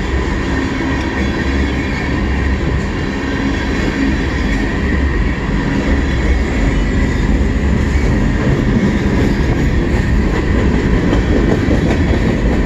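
Cars of a CN mixed freight train rolling past: a loud, steady rumble of steel wheels on the rails with some clickety-clack over the rail joints.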